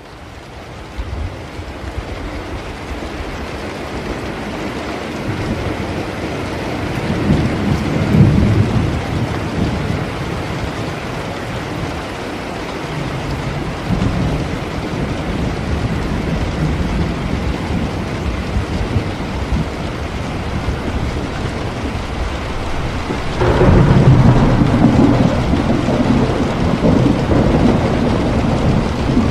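Steady heavy rain with rolling thunder: a rumble swells and fades in the first third, and a louder clap breaks about three-quarters of the way in and rumbles on.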